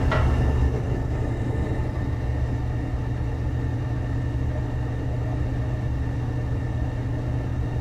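Gas furnace running steadily: an even low hum with a constant hiss from the burners and blower.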